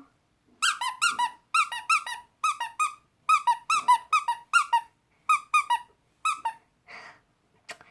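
A rubber squeeze toy squeezed over and over, giving about twenty short, high squeaks, often in quick pairs, each dipping slightly in pitch.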